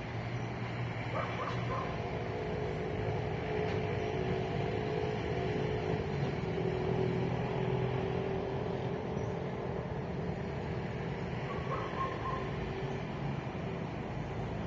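Road traffic: a motor vehicle's engine running steadily as it passes, with a couple of short higher calls, about a second in and again near twelve seconds.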